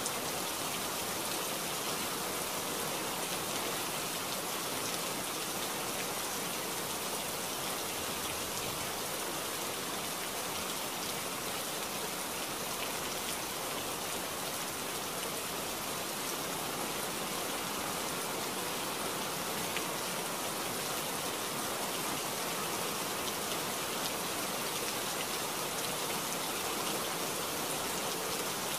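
Heavy rain falling steadily, a dense even hiss with a few separate drop ticks.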